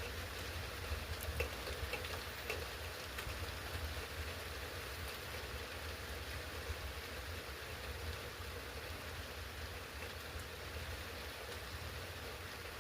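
Steady rain falling, with a few faint ticks of drops in the first few seconds.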